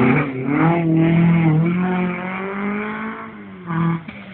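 Ford BDA twin-cam four-cylinder rally engine revving hard from inside the car as it accelerates. The pitch climbs quickly and then holds high. The engine drops off about three and a half seconds in, with a short blip of revs near the end.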